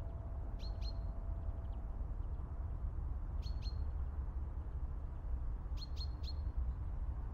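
A songbird chirping in short groups of two or three high notes, each a quick downward sweep ending in a brief held note, heard about three times over a steady low rumble.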